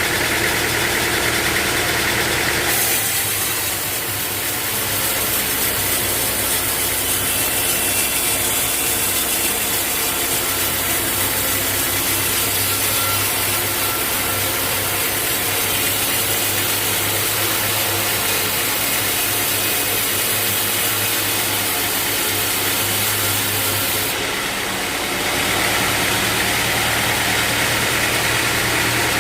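A sawmill's engine running steadily. From about three seconds in until a few seconds before the end, a loud hiss rides over it as the band saw blade cuts through a teak log.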